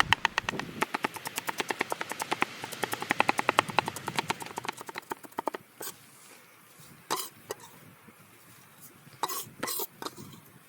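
A fast, even run of sharp taps, about ten a second, that dies away about five seconds in, followed by a few separate knocks.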